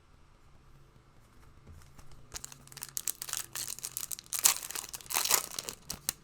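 A foil trading-card pack wrapper being torn open and crinkled by hand, starting about two seconds in with a dense run of crackles.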